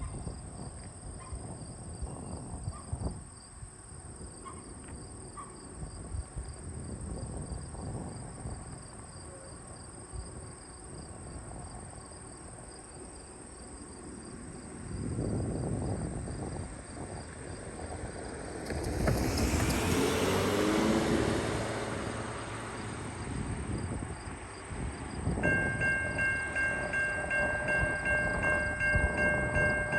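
Approaching CN GE Evolution-series (GEVO) diesel locomotive, its rumble building from about halfway in. A little over five seconds before the end, its Nathan K5HL five-chime horn starts a long, steady chord that holds to the end.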